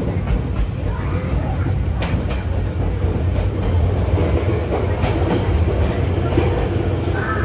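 Steady rumble inside a moving V-train (Baekdudaegan Canyon Train) passenger car as its wheels run along the rails, with a few sharp clacks from the track.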